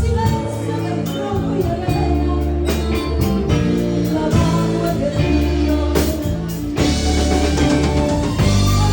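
Live music: a singer with guitar and band backing, bass notes and a sung melody throughout.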